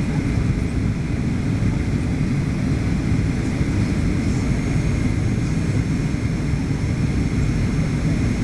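Steady engine and airflow noise inside the cabin of a Boeing 737-800, a deep, even rumble with a fainter hiss above it.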